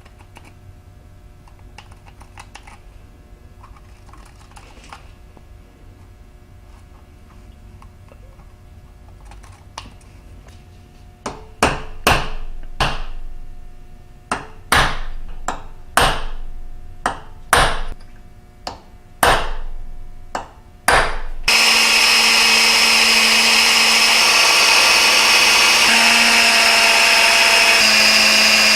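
About a dozen sharp strikes, roughly one a second, each ringing briefly, like hammer blows on metal. Then an electric drill starts suddenly and runs steadily at full speed.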